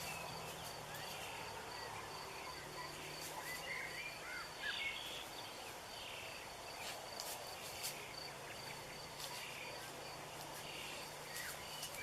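Faint forest ambience: an insect chirping high in a steady, even pulse throughout, with scattered short bird calls.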